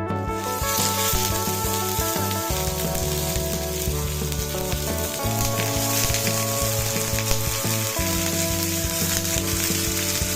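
Food sizzling as it fries in hot oil, a steady crackling hiss that starts suddenly at the opening.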